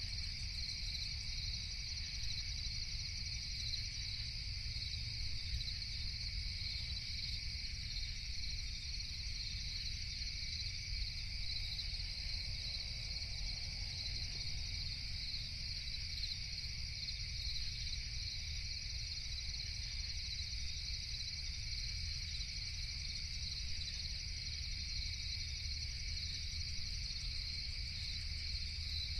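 Steady, unbroken chorus of crickets chirping at night, with an even low rumble underneath.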